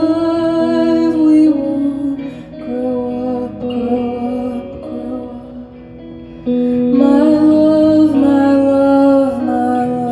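Live music from the song's closing instrumental passage: guitar holding sustained chords, dropping quieter in the middle and swelling back up suddenly about six and a half seconds in.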